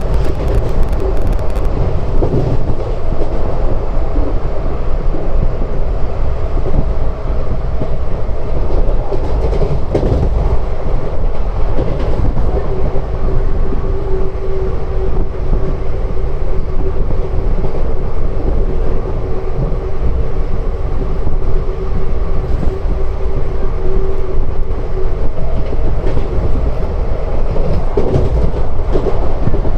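Passenger train hauled by twin WDP4 diesel locomotives running along the line: a loud, steady rumble with wheels clattering over the rail joints. A steady hum stands out from the rumble through the middle stretch.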